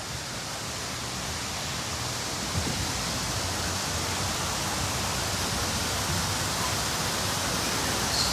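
Steady rush of falling water from an indoor waterfall, slowly growing louder.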